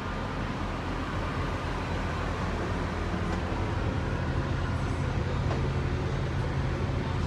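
Steady low mechanical hum with an even hiss over it, growing a little louder about halfway through.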